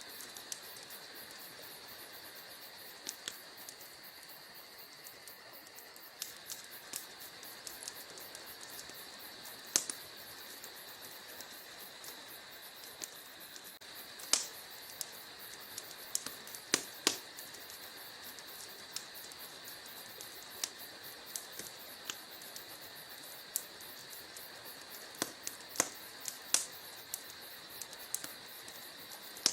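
Wood fire crackling in a fireplace: sharp, irregular pops and snaps over a steady high-pitched hiss.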